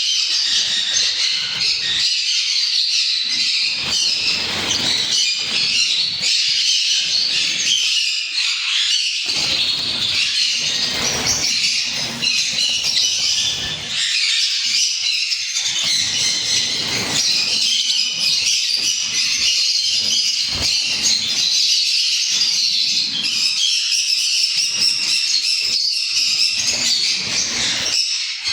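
A flock of sun conures and lovebirds in an aviary, squawking and chirping without pause, many high calls overlapping.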